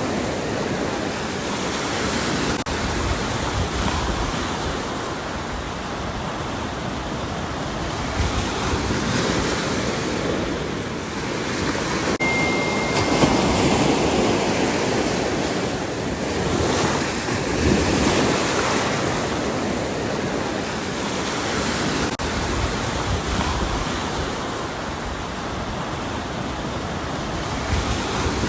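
Ocean surf: waves breaking and washing on the shore, swelling and easing every few seconds. A brief, faint, high steady tone sounds about twelve seconds in.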